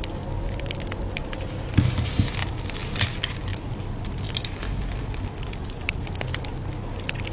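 Campfire crackling: scattered small pops over a steady low rumble of burning wood, with a few louder pops about two to three seconds in.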